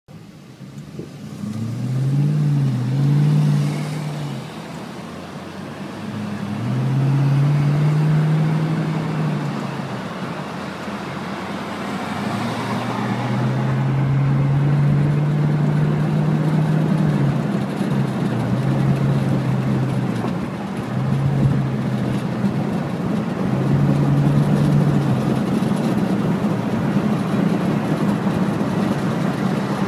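A car engine pulling away and accelerating, its pitch rising and dropping several times as it goes through the gears, over steady road and tyre noise heard from inside a moving car.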